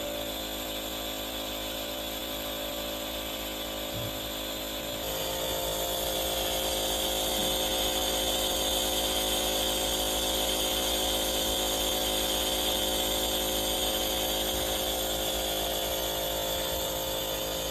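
Small electric motor of a dog's respirator, the breathing-treatment machine used for kennel cough, running with a steady hum and hiss; it gets louder about five seconds in.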